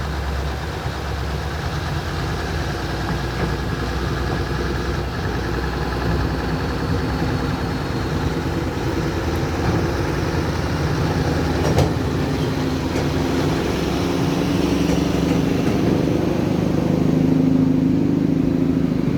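Heavy truck engine running steadily, growing louder over the last few seconds, with a single sharp knock about twelve seconds in.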